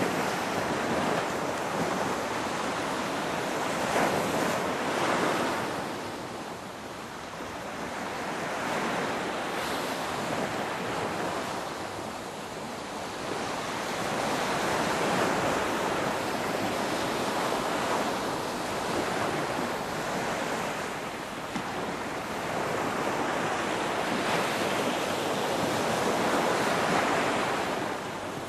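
Ocean waves breaking and washing ashore in slow surges that swell and ebb every several seconds, with some wind noise.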